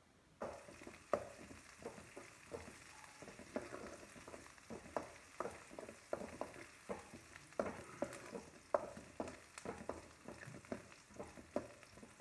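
Chopped onions, garlic and curry leaves sizzling in hot oil in a metal pan, starting about half a second in, while a metal spoon stirs them, scraping and knocking against the pan about twice a second.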